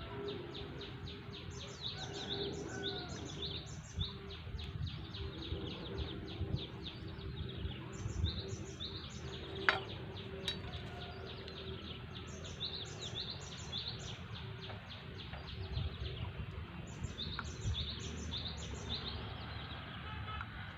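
A small bird chirping in quick runs of short, high notes that come in bursts, over a steady low hum and rumbling background noise, with one sharp click about ten seconds in.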